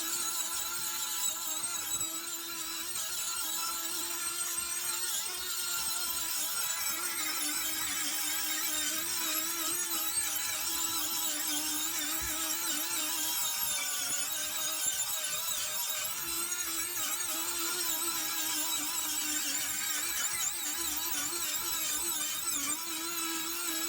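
Electric power tool running steadily, grinding the rusted steel surface of an antique ice claw flat, with a held motor tone over a continuous high hiss.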